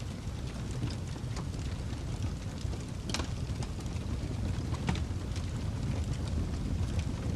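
Fireplace fire burning with a steady low rumble and scattered crackles and pops, the sharpest about three seconds in and about five seconds in.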